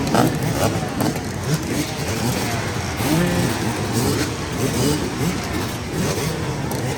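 Motorcycle engines running and revving, rising and falling in pitch, with voices mixed in.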